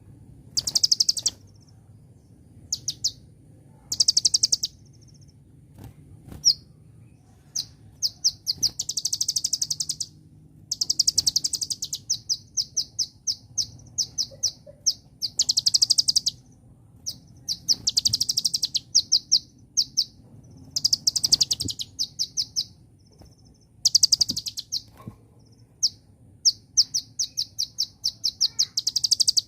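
Kolibri ninja (Van Hasselt's sunbird) singing: high, rapid trilled phrases about a second long, alternating with strings of separate sharp chips, repeated with short pauses throughout. A faint low hum runs underneath.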